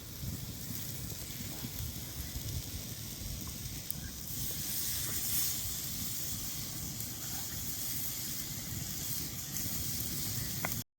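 Meat sizzling on a red-hot stone over a campfire: a steady hiss that grows louder about four seconds in, with a few faint crackles and a low rumble underneath. The sound cuts off abruptly just before the end.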